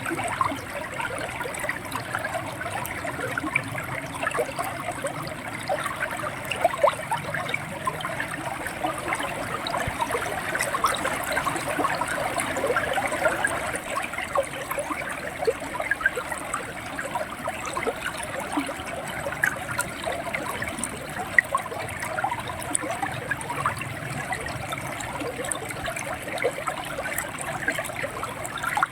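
River water running and gurgling over rocks, a steady flow full of small splashes and trickles.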